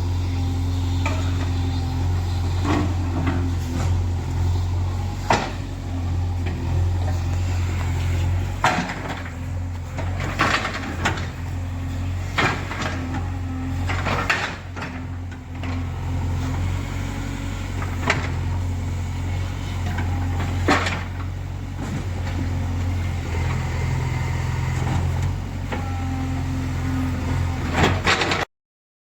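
JCB 3DX backhoe loader's 76 hp diesel engine running steadily under work, with a dozen or so sharp knocks scattered through it. The sound cuts off suddenly near the end.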